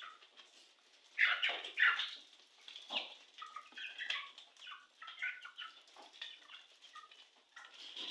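Short animal calls: two louder calls about a second apart near the start, then a string of softer, higher short calls.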